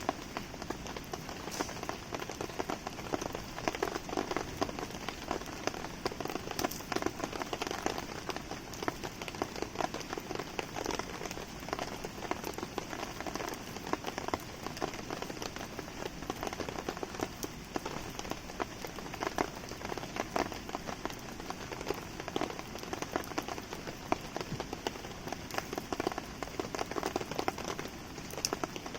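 Steady rain falling in a dense patter of drops, mixed with the crackle of a wood campfire burning.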